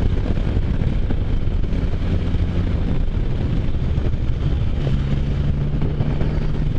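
Can-Am Spyder F3's 1330 cc three-cylinder engine running while riding, with wind noise on the microphone. The engine note steps up about five seconds in.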